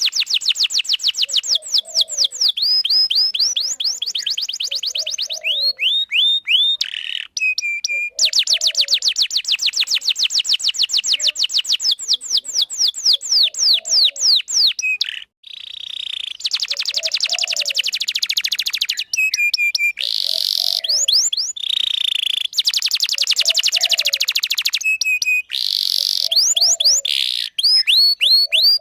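Domestic canary singing a long, continuous song: rapid trills of repeated high sweeping notes that switch to a new pattern every few seconds, with only brief pauses.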